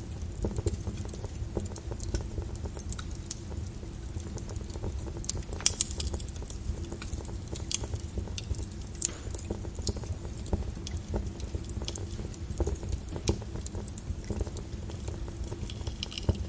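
Wood fire in a fireplace crackling: irregular sharp pops and snaps over a steady low rumble of the burning fire, with one louder snap about six seconds in.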